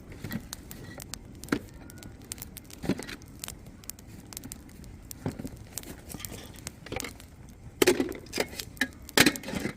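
Burning firewood in a campfire crackling and popping: irregular sharp pops over a low hiss, with two louder clusters of pops near the end.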